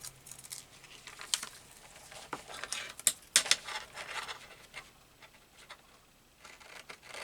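Scissors and paper being handled on a craft table: scattered light clicks and rustles, the sharpest a little after three seconds in.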